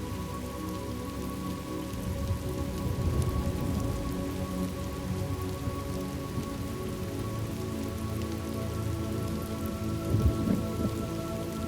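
Steady rain with rolling thunder: a low rumble builds a couple of seconds in, and a louder rumble comes near the end, over faint held tones.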